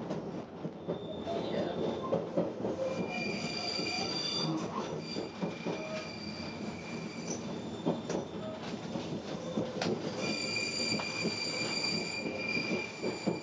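Regional train of the Morges–Bière line heard from inside the carriage as it runs: a steady rumble, with the wheels squealing in high, steady tones for a second or so about three seconds in and again for the last few seconds. A few sharp clacks come from the wheels over rail joints or points.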